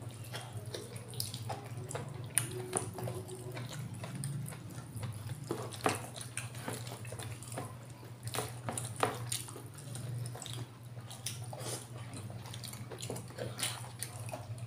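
Wet chewing and lip-smacking of people eating rice and chicken liver afritada by hand, many short irregular smacks and clicks over a steady low hum.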